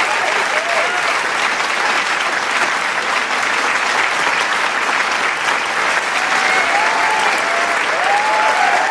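Large crowd applauding: dense, steady clapping, with cheering voices and whoops rising over it at the start and again from about two-thirds of the way through.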